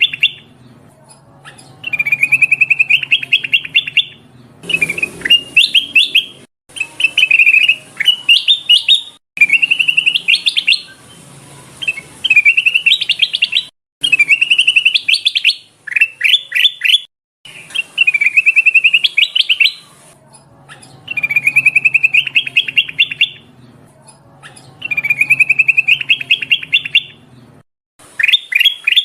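Kutilang emas bulbul calling in a lure recording: short bursts of quick chirps climbing in pitch, repeated about every three seconds, over a faint low hum.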